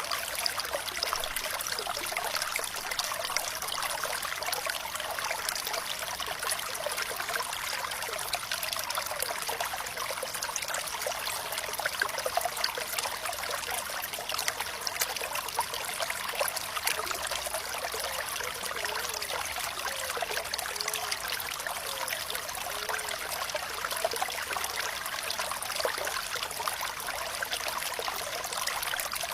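Running water trickling and splashing steadily, with fine bubbling throughout and a few soft gurgles about two-thirds of the way through.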